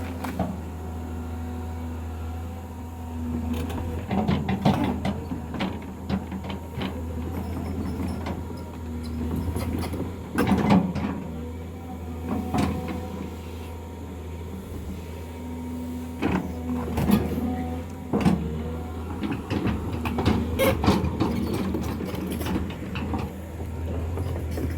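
Diesel engine of heavy earth-moving machinery running steadily, with repeated sharp knocks and clanks of work scattered throughout.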